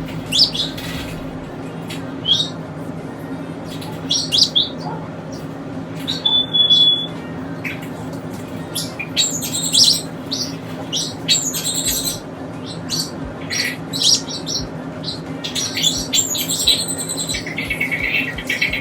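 Pet birds chirping and squawking in many quick, short calls, with one brief held whistle about six seconds in, over a steady low hum.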